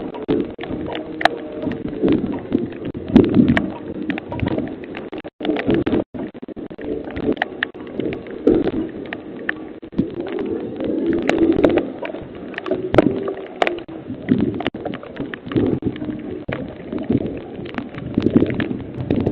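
McNeilus ZR garbage truck working, its engine and hydraulic packer running steadily under many sharp cracks and clicks.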